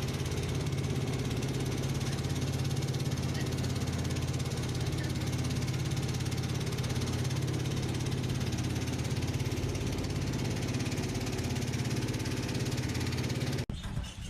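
An engine running steadily at a constant speed with a low, even hum, cutting off suddenly near the end.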